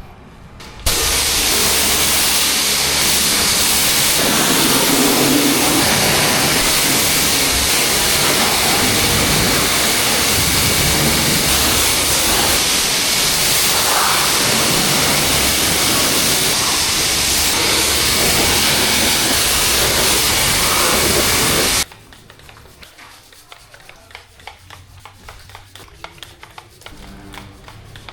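Pressure washer spraying water: a steady hiss over a low motor hum. It switches on about a second in and cuts off abruptly about six seconds before the end, leaving only faint ticks and knocks.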